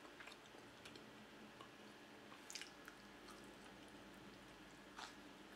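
A person biting and chewing a slice of homemade pizza, faint and close, with a few short sharp mouth clicks. The loudest click comes about two and a half seconds in.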